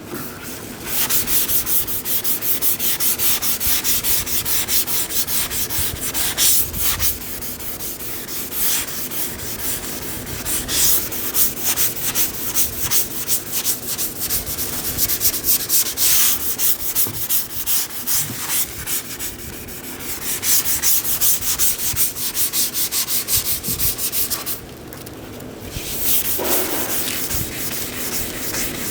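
Sanding on a car body panel: rapid, rhythmic back-and-forth strokes that keep up steadily, pausing briefly near the end before starting again.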